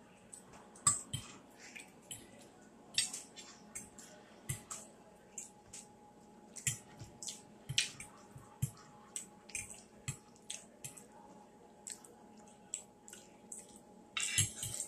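Close-up eating sounds: wet chewing and lip smacking on rice and gravy, a string of short, irregular smacks and clicks, about two or three a second.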